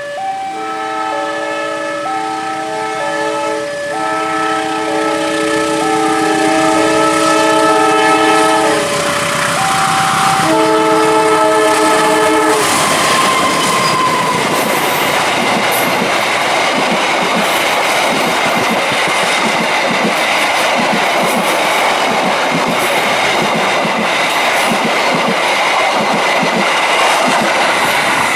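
A loud two-tone warning that alternates between two chords, then from about 12 seconds in the Kamandaka passenger train passing close by, a steady rumble with regular clacks of its wheels over the rail joints.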